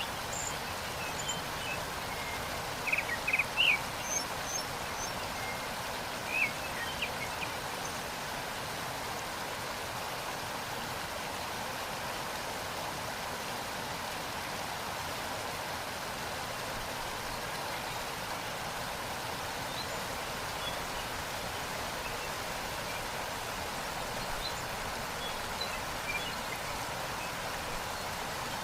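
Waterfall water rushing steadily. Short bird chirps come over it about three seconds in and again around six seconds, with faint chirps near the end.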